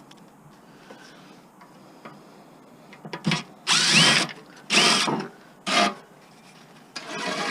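Power drill in several short bursts from about three seconds in, the motor whining as it backs out a screw holding a part of the mower.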